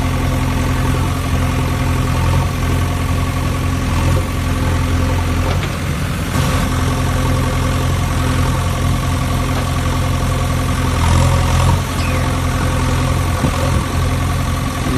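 A heavy vehicle's engine idling steadily, a low even drone that stays level throughout, with a brief interruption about six seconds in.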